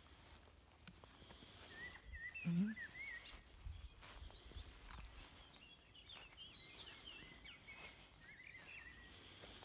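Small birds singing in short warbling phrases, with a brief low call or grunt about two and a half seconds in and scattered faint knocks.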